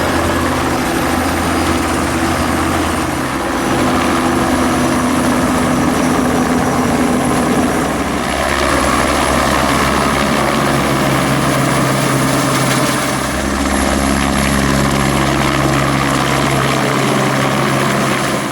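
Light turbine helicopters running, a steady rotor beat under a thin high turbine whine. The low tones shift a few times as the engines and rotors change pitch.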